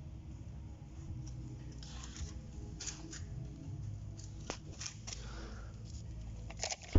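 Scattered light clicks and rustling from objects being handled, over a low steady hum, with a few sharper clicks near the end.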